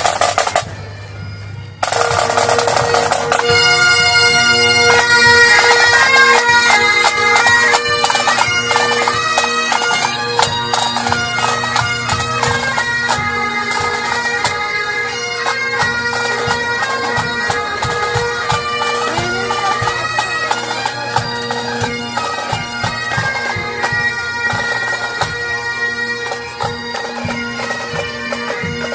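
Highland bagpipes striking up: after a short burst of noise, the drones come in about two seconds in and the chanter takes up a tune over them, playing on steadily.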